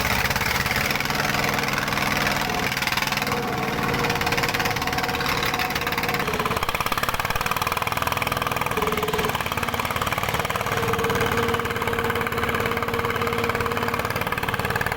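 Dongfeng diesel engine running steadily, with a higher tone that comes and goes several times over the steady running.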